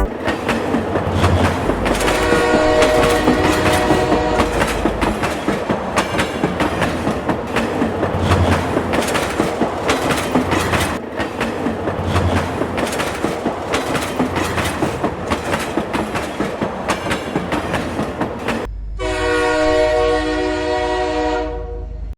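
Train running on rails, its wheels clattering steadily over the rail joints. The horn sounds from about two seconds in, and a long, loud horn blast comes near the end.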